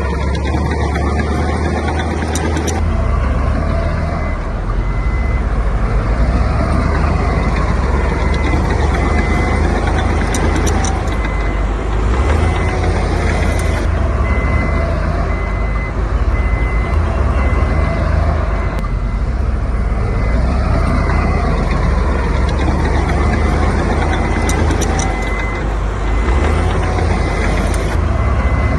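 Heavy diesel construction machinery running steadily, with a reversing alarm beeping at an even pace.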